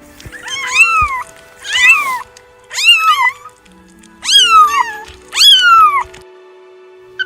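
A domestic cat meowing five times in about a second-spaced series, each meow rising then falling in pitch, over faint background music.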